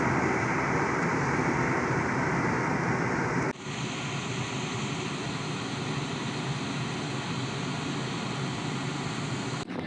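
Steady road and engine noise of a moving car, cut off abruptly about three and a half seconds in and replaced by a quieter steady noise.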